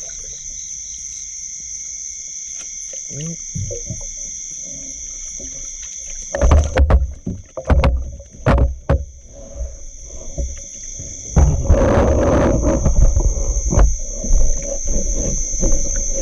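Steady high-pitched insect chorus, with water splashing and sloshing starting about six seconds in, loudest around twelve seconds.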